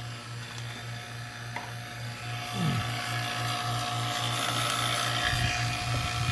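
Electric A/C vacuum pump running steadily with an even, pulsing hum while pulling vacuum on a car's air-conditioning system. It gets louder, with added hiss, about two and a half seconds in.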